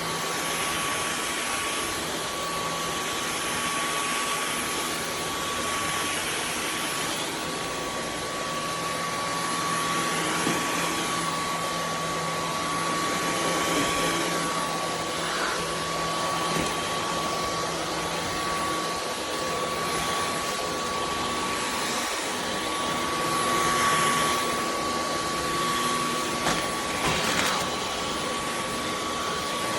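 Dyson V15 Detect cordless stick vacuum running steadily with a high whine, its sound swelling and easing as it is pushed about. A few short rattles come in the second half.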